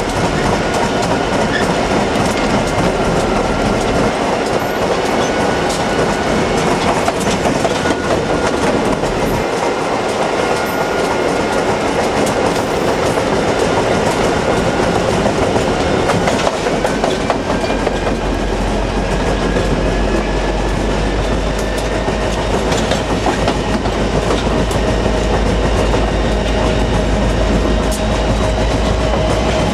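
Train cars rolling steadily past on the track, wheels clattering over the rail joints. A deeper low rumble joins a little past halfway.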